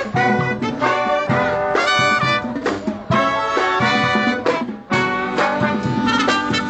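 Brass band playing a swing number: trumpets, trombones and saxophones in short accented phrases, with a brief break about five seconds in.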